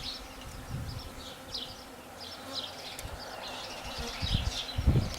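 Honey bees buzzing around an open hive, with a run of short high chirps repeating throughout and a couple of low thumps near the end.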